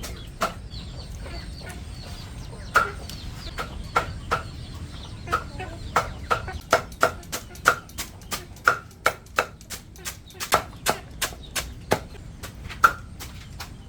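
Sharp knocks in quick, uneven succession, about two or three a second through the middle stretch, with chickens clucking in the background.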